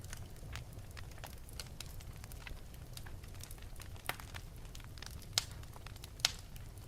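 Wood fire burning in an open fireplace: a steady low rumble of flames with frequent irregular crackles and pops, three sharper pops standing out about four, five and a half and six seconds in.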